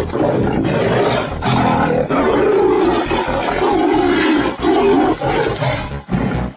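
Big cat roaring in a string of loud, rough bouts, each lasting about a second.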